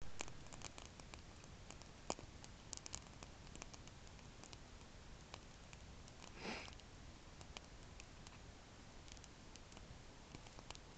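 Wood campfire crackling: faint, irregular snaps and pops over a low hiss, with one brief, louder rushing burst about six and a half seconds in.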